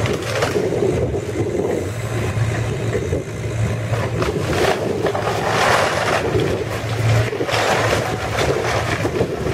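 Heavy demolition machinery engine running steadily while a house is torn down, with repeated crunching and crashing of breaking wood and debris that swells and fades.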